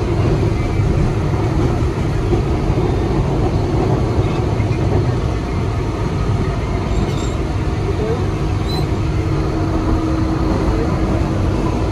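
Mumbai suburban local train, an electric multiple unit, running: a steady, loud rumble of wheels and carriage heard from inside a crowded coach. A steady hum comes in over it a little past halfway and fades near the end.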